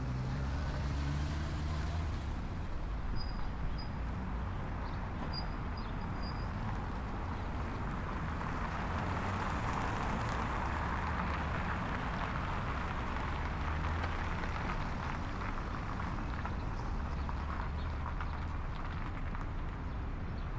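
Steady street traffic noise, with a vehicle passing and swelling louder around the middle.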